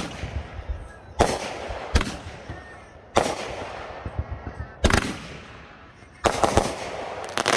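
Consumer aerial fireworks going off: sharp bangs about every second or so, each trailing off in a fading crackle, with several bangs in quick succession near the end.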